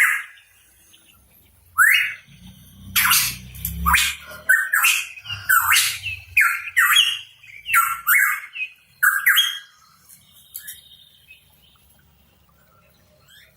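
Pitohui giving a rapid series of short, harsh, rising calls, which stop about ten seconds in.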